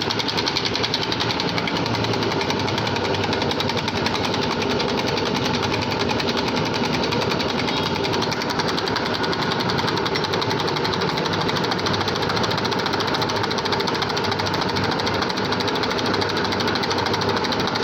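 Fiat 640 tractor's diesel injection pump running on a test bench, a steady rapid mechanical chatter as its fuel delivery and pressure are checked.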